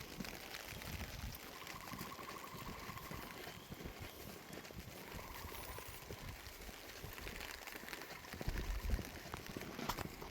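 Rain falling in a sudden shower, a dense, steady patter of drops, with a few low bumps near the end.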